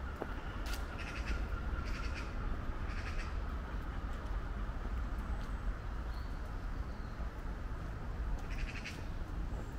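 A bird cawing, three calls about a second apart and one more near the end, over a steady low background rumble.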